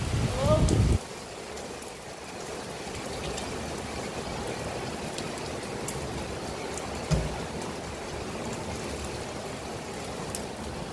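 Steady rain falling, an even hiss with scattered faint drop ticks. A loud low rumble fills the first second, and there is a brief thump about seven seconds in.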